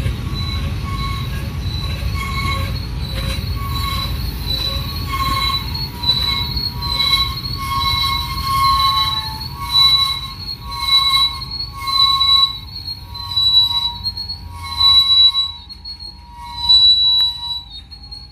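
Freight train wheels squealing: a high, pulsing squeal that comes and goes about once a second over the low rumble of the rolling train, and the rumble dies away toward the end as the train slows.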